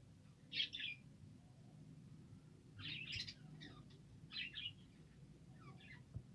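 Budgerigars chirping in four short bursts of quick, high chirps, over a faint low hum.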